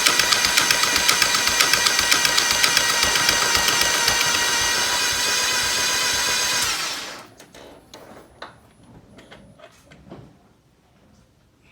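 A 2003 Nissan Sentra Spec V's QR25DE four-cylinder engine is being cranked on the starter with the spark plugs out, a dry crank to prime oil into the timing chain tensioner and cam phaser. It makes a steady whirr with an even pulse. The cranking stops about seven seconds in, leaving faint clicks and knocks.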